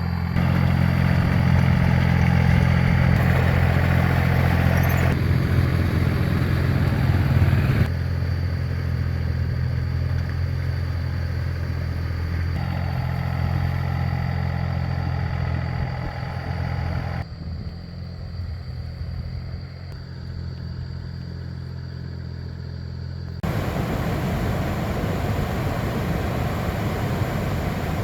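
Two-wheel walking tractor's engine running steadily with a low, even hum and some clatter. The sound changes abruptly several times, and it is rougher and noisier in the last few seconds.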